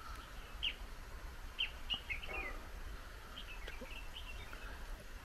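Small birds chirping faintly: short, high chirps scattered through, a few at a time, over a faint low background hum.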